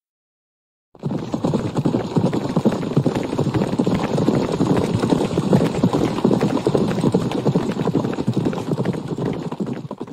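Dense, overlapping hoofbeats of many horses galloping together, starting about a second in and stopping suddenly at the end.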